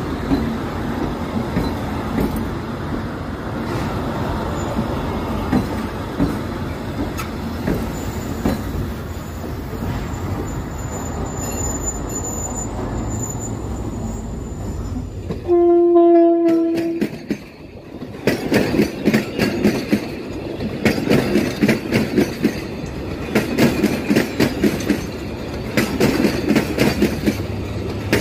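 Passenger train rolling along the platform with a steady rumble and a thin, high wheel squeal, then one horn blast of about a second and a half a little past halfway, the loudest sound here. After it, the wheels clatter rhythmically over the rail joints.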